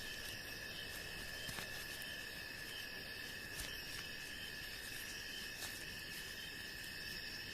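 Insect chorus: several crickets trilling steadily at different pitches, with a few faint clicks.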